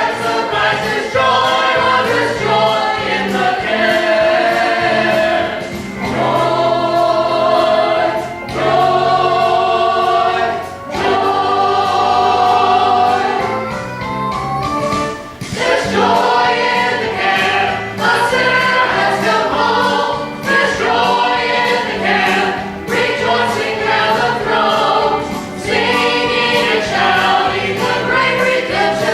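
A small group of singers performing a gospel song, several voices singing together in phrases with short breaths between them.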